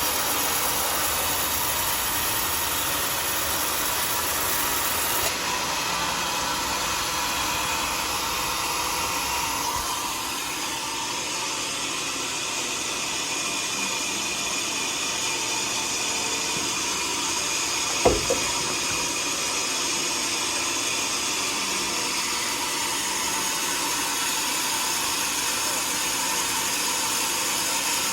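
Sawmill machinery running steadily while sawing a teak log, a constant hissing mechanical noise, with one sharp knock about 18 seconds in.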